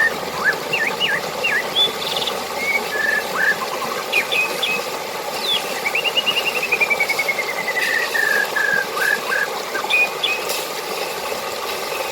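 Steady rush of flowing water with several birds chirping and whistling over it; about halfway through, one bird gives a long run of quick notes that fall steadily in pitch.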